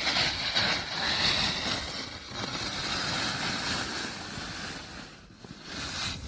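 Snowboard sliding and carving through snow, with wind buffeting the microphone: a rushing hiss that swells and eases, dipping about five seconds in and rising again near the end.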